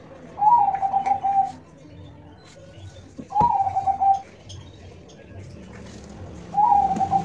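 Zebra dove (perkutut) cooing: three calls about three seconds apart, each about a second long, a quick run of notes that starts slightly higher and levels off. A few faint clicks sound in between.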